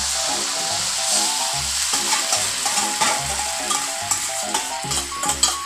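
Chicken sizzling as it is tipped from a steel bowl into hot tomato sauce in a wok, with metal clinks of the bowl and utensil in the second half. Background music plays underneath.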